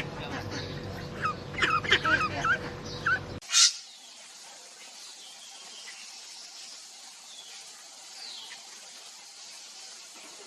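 Short animal calls repeating for about three seconds, cut off suddenly by a sharp click, then a low hiss with a few faint chirps.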